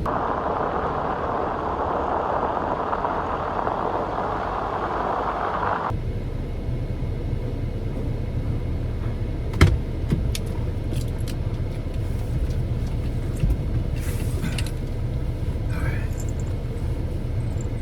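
Car cabin noise while driving: a steady hiss for the first six seconds that cuts off suddenly, then a low rumble with a few sharp clicks and short jingles.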